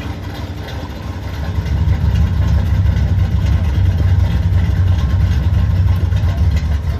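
Car engine running with a low rumble that grows louder about a second and a half in, then holds steady.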